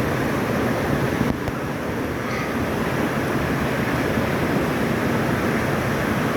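Steady rushing of a rocky mountain stream, an even unbroken water noise.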